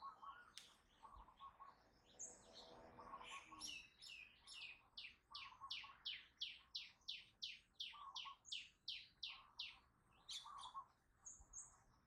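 Faint birdsong from several birds. One sings a fast run of short, high notes, each sliding downward, about four a second, that swells through the middle and stops about ten seconds in. Another repeats a short, lower trilled call every second or two, and a few scattered high chirps are heard.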